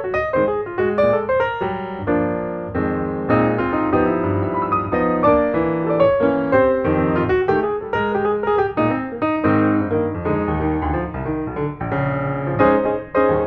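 Background piano music, a steady stream of notes with chords.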